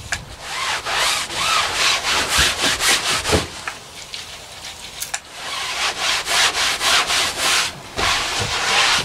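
Rapid back-and-forth scrubbing or rubbing strokes on a hard surface, about four a second, in two spells with a pause of a second or two between them.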